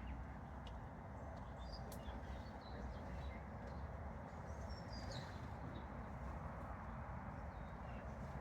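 Wild garden birds giving short, scattered high chirps over a steady background hum of outdoor noise.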